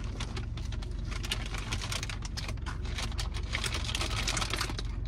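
Close-up chewing of a crispy breaded fried chicken wing: a dense, irregular run of crunchy clicks from the mouth.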